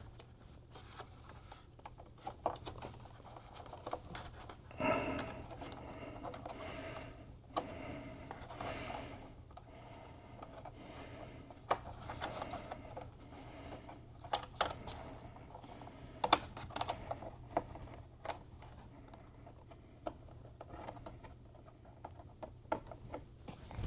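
Scattered light clicks, taps and short scrapes of small parts and tools being handled, irregular and spread through the stretch.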